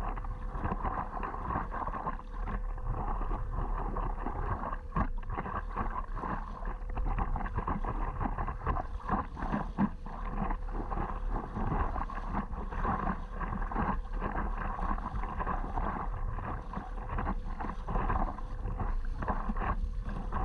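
Water sloshing and paddle strokes around a stand-up paddleboard, with a steady low wind rumble on the microphone.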